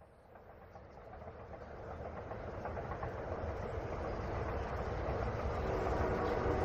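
A train approaching, its rumble and rail clatter growing steadily louder, with a horn starting to sound near the end.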